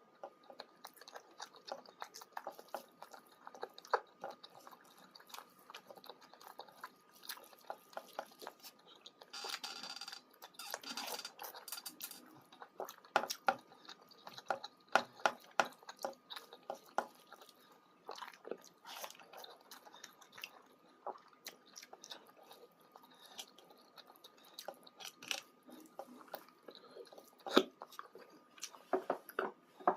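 Close-miked chewing and biting of a person eating chicken curry with roti and rice: irregular wet mouth smacks and small crunches, with a denser hissy stretch about ten seconds in.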